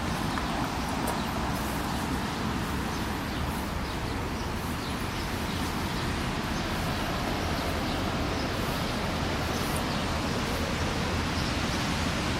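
Steady outdoor noise with a low rumble, typical of distant city traffic.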